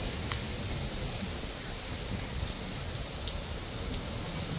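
Steady heavy rain, with a few sharp taps of single drops landing close by.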